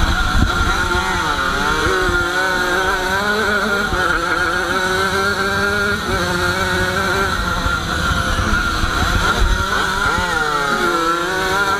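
Close-up sound of a Jawa 50 special's small two-stroke engine at racing revs, its pitch dipping and climbing again as the throttle is shut and reopened.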